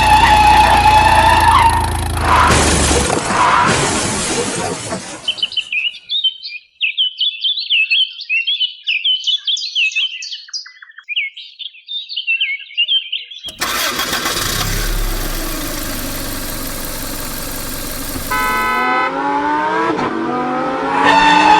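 Vehicle engine running for about five seconds and then cutting off, followed by birds chirping for several seconds. The engine sound then returns and rises in pitch near the end as it revs up.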